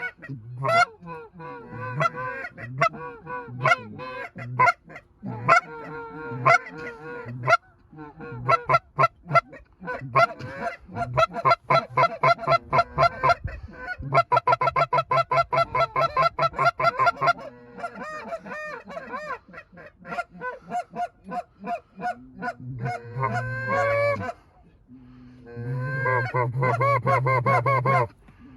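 Canada geese honking: rapid runs of short, repeated honks, several a second, broken by brief pauses.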